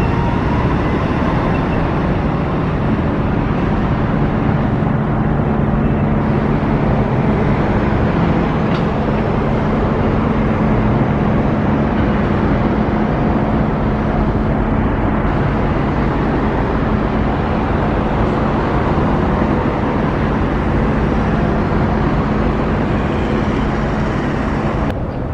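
Steady vehicle engine and road noise, with a constant low engine hum; the sound changes abruptly just before the end.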